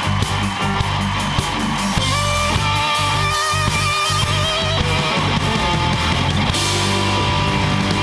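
Rock music played on electric guitar over bass and drums, with held, wavering lead notes in the middle.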